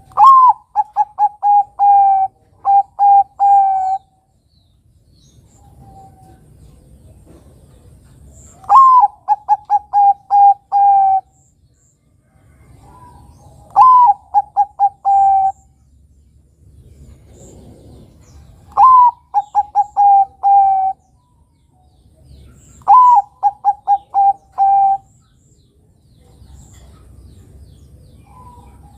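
Zebra dove (Bangkok-type perkutut) singing: five phrases a few seconds apart, each a higher opening note that drops into a quick run of short cooing notes.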